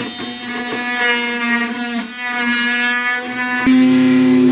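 Oscillating multi-tool buzzing steadily, getting louder about three and a half seconds in.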